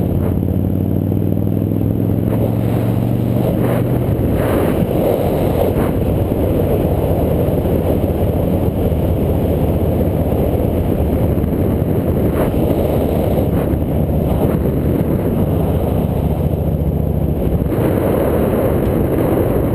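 Old Hero motorbike's small engine running on the move, its pitch rising as it accelerates over the first few seconds, under a heavy rush of wind on the microphone. A few sharp knocks come through along the way.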